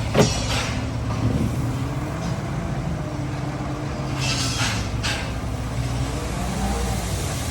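A bulldozer's diesel engine running steadily, with a sharp knock just after the start and short hissing bursts about four and five seconds in.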